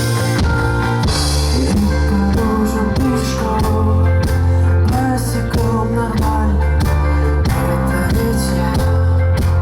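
Live rock band playing a song, with a steady bass line, regular drum beats and guitar.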